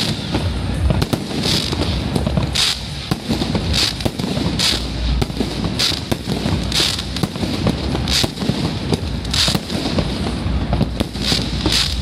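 Aerial fireworks shells bursting in a steady barrage, about one or two sharp bangs a second, with a continuous low rumble between them.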